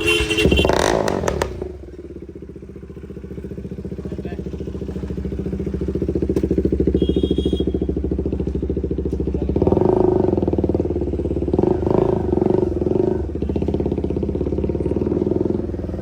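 KTM motorcycle with an aftermarket exhaust running with a steady drone that grows louder, then surges a few times about ten seconds in as the throttle is opened.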